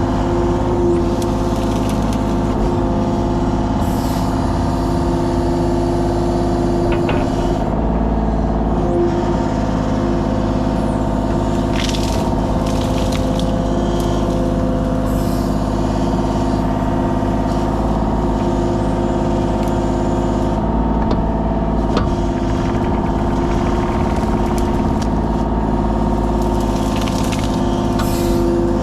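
Kubota KX033 mini excavator's diesel engine running steadily at constant working speed, with a few brief cracks or crunches over it.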